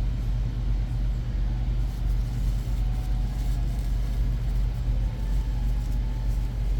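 Steady low background hum at an even level, with a few faint light clicks.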